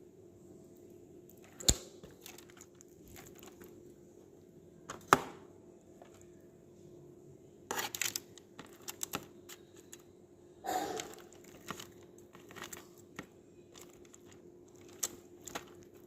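Kitchen utensils clicking, knocking and scraping against a baking pan as cooked chicken pieces are turned over. There are two sharp knocks about 2 and 5 seconds in, then short bursts of rattling, over a faint steady hum.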